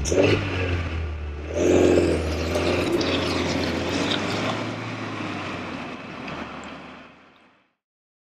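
Ford Mondeo's engine heard at the exhaust, running with a low steady hum, getting louder about a second and a half in as the car pulls away, then fading out as it drives off.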